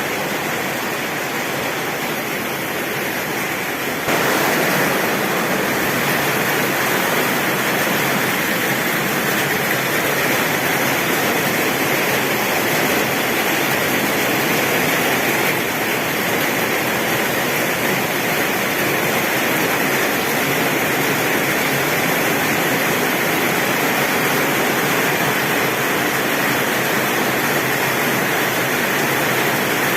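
Torrential rain falling on a tin roof, a dense steady hiss that steps up louder about four seconds in.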